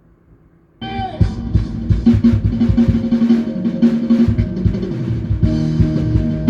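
A band rehearsing, with a drum kit driving the music: after a quiet start, the full band comes in suddenly about a second in with bass drum, snare and fills under sustained pitched notes.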